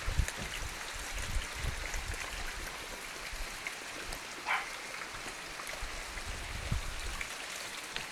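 Rain falling in a sun shower: a steady hiss of rain with scattered drops tapping, and occasional low thumps.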